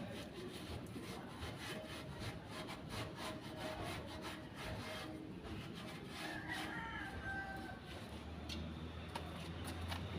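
Rapid back-and-forth scraping strokes, about five a second, thinning out after about five seconds. A low engine rumble comes in near the end.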